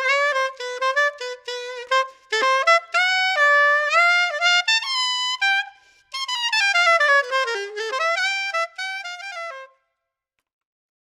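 Yamaha YSS-62 soprano saxophone, freshly overhauled, played solo: a line of quick notes, a short break about six seconds in, then a falling run, with the playing stopping shortly before the end.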